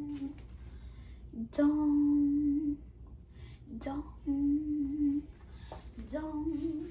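A child humming a slow, low tune made of several held notes, each up to about a second long, with short gaps between: a mock wrestler's entrance theme.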